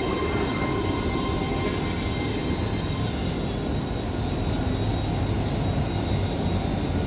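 A train moving along the platform with its wheels squealing on the rails in a high, wavering squeal over a steady low rumble.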